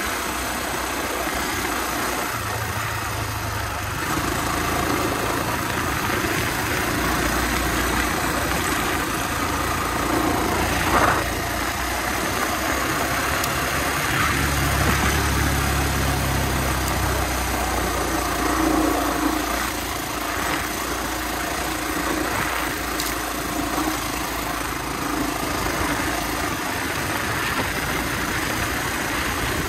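Honda XR250R's air-cooled single-cylinder four-stroke engine running under way, heard from on the bike along with rushing air, the engine note rising and easing with the throttle. A couple of short knocks cut through, one about a third of the way in and one later.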